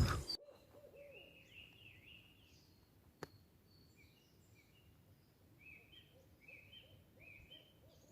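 Small forest birds calling: runs of quick, repeated chirps, a few notes a second, in two spells. A single sharp click comes about three seconds in, and a loud noise breaks off in the first half-second.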